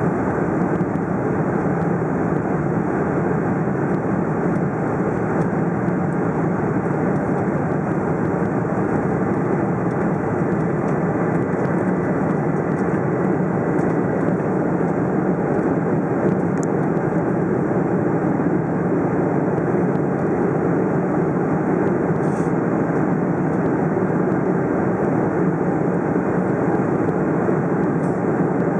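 Steady, even noise of a Boeing 747-400's engines and rushing air, heard from inside the passenger cabin; it does not change in level or pitch.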